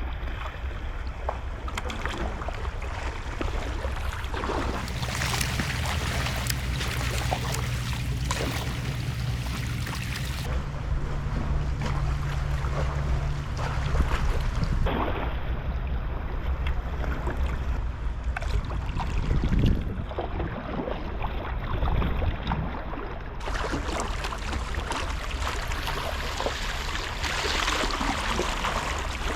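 Sea water washing around a kayak and wind on the microphone, a continuous noisy rush. A steady low hum runs under it from about five seconds in to about fourteen seconds.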